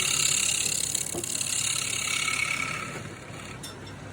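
Wood lathe running with a turning tool cutting into the spinning wood, a steady hissing scrape that fades away about three seconds in.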